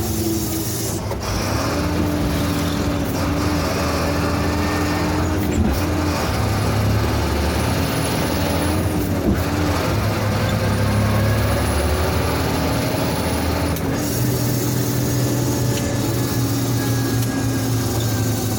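Diesel engine of a Sinotruk HOWO heavy truck running under way, its pitch dropping and rising again several times as gears are changed, with a few sharp knocks.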